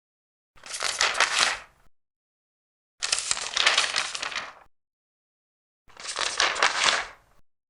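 Large paper pages being turned one at a time: three separate crackling paper rustles, each lasting a second or more, with dead silence between them.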